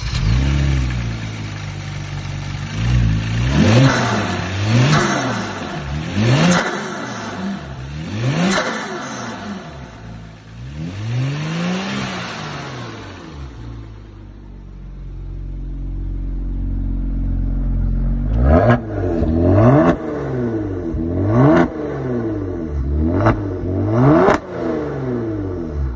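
Kia Stinger's 3.3-litre twin-turbo V6 being revved repeatedly, each rev rising and falling in pitch. It settles into steadier running partway through, then takes a run of quick, sharp throttle blips about once a second near the end.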